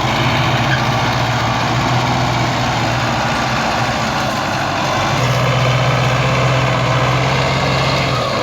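Tractor diesel engine running at a steady, even pitch.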